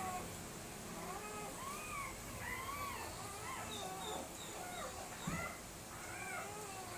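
German Shepherd puppies whining and yelping, many short high cries rising and falling and overlapping one another, with a single knock about five seconds in.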